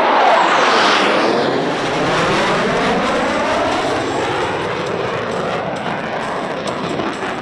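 Jet fighters, Thunderbirds F-16s, flying past with a loud jet roar that peaks about a second in and then falls in pitch as they go by.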